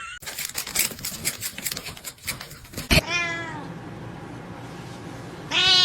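Domestic cat meowing twice: a short call with falling pitch about halfway through, and a louder call near the end. Before these there is a run of rapid clicks and scratching noises.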